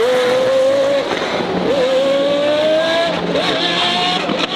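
Race car engine at high revs accelerating hard, its pitch climbing and dropping sharply at each upshift, three gear changes about a second and a half apart.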